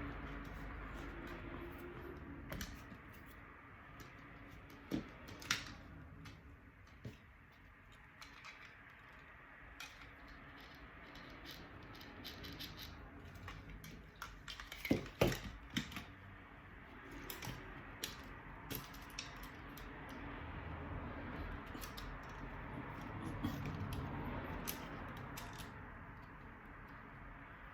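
Scattered small clicks and light knocks of hands working with small parts and tools, sharpest about 5 and 15 seconds in, over a low steady background hum.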